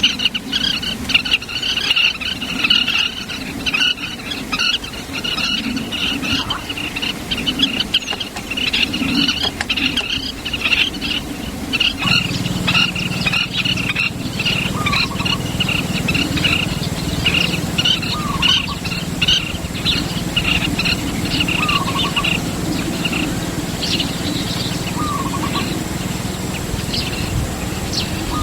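Birds chirping at a nest: dense, rapid, high-pitched chirps, with a short lower call repeating every few seconds in the second half. A low steady hum comes in about halfway through.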